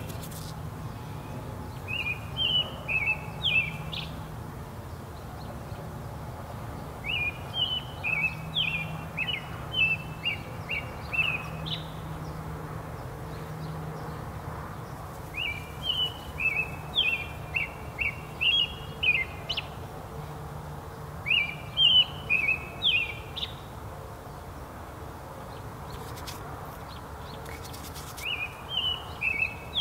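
A songbird singing, repeating groups of quick chirped notes about five times with pauses of a few seconds between, over a low steady hum.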